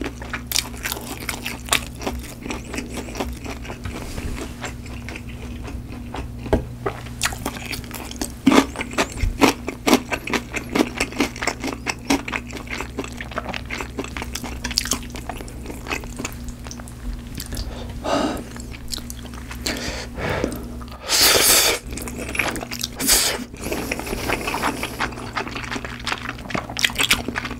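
Close-miked eating: chewing with many crisp crunching and smacking clicks, and a louder noisy burst about two-thirds of the way through.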